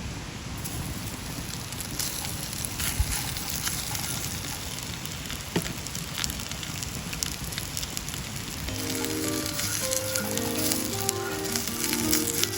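Food sizzling and frying in a pan over a campfire: a steady hiss with scattered sharp pops and crackles. Background music comes in about two-thirds of the way through.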